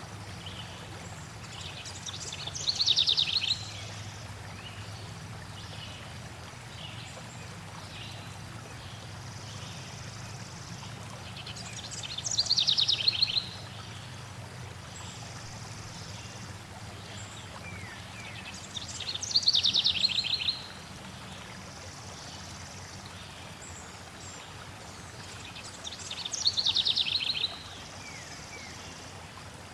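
A songbird singing the same short song four times, about every seven seconds: a fast run of notes that falls in pitch. Under it runs a steady wash of flowing water, with faint chirps from other birds between the songs.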